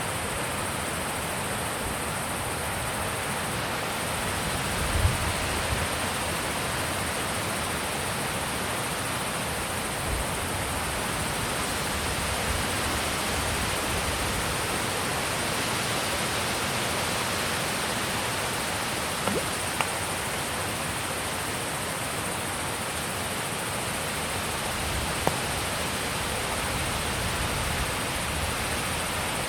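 Steady wind blowing, a continuous rushing hiss, with a few low buffets of wind on the microphone about five seconds in.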